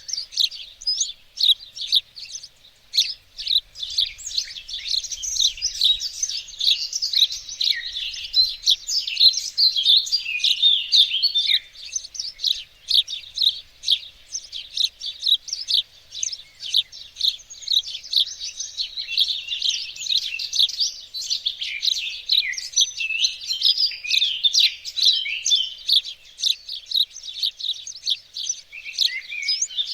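Several songbirds chirping and singing together in a dense, continuous chorus of quick high chirps and short warbling phrases.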